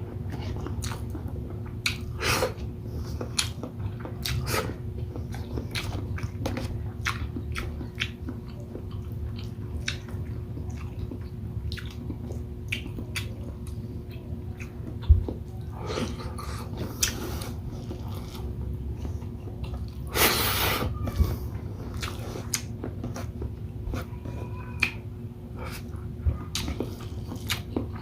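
Close-miked eating: chewing and biting of shrimp and squid in coconut sauce with rice, with many short wet mouth clicks and smacks over a steady low hum. A low thump comes about halfway through, and a louder noisy stretch of a second or so about two-thirds of the way in.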